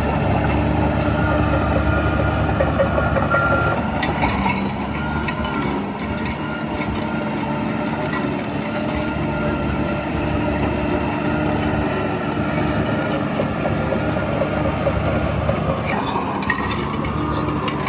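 Bulldozer's diesel engine running steadily under work, with brief clatter around four seconds in and again near the end.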